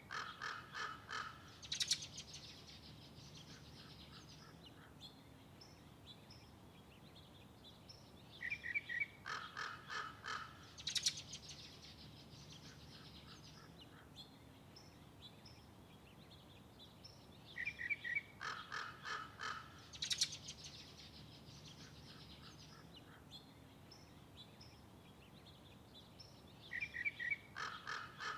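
A bird calling in the same phrase about every nine seconds: a run of quick notes ending in one loud harsh call.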